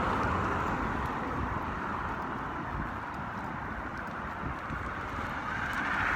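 Road traffic going by: a steady rushing of passing vehicles that eases a little, then swells again near the end as a car comes closer.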